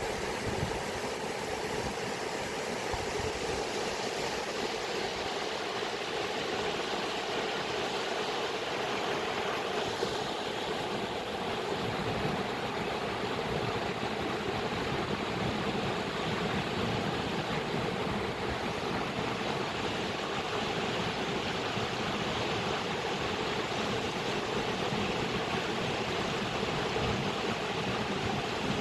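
Flowing water rushing steadily, an even unbroken noise.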